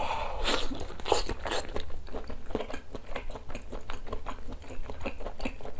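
Close-miked biting into and chewing a whole piece of chewy boiled beef tendon: a few louder bites in the first second and a half, then a steady run of short mouth clicks and smacks.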